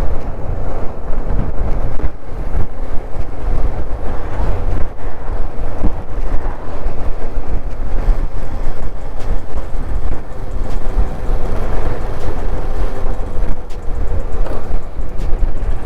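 Wind buffeting a handlebar action camera's microphone on a moving motorcycle, with the engine's faint steady note underneath.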